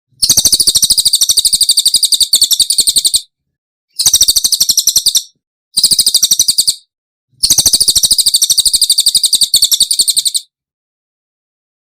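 Recorded songbird song: four high-pitched phrases, each a fast, dry trill of rapidly repeated notes at about fifteen a second, separated by short pauses. The longest phrase comes near the end.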